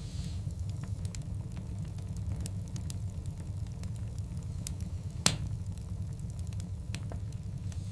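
Wood fire of large burning logs crackling: scattered sharp snaps over a steady low rumble, with one loud pop a little past five seconds in.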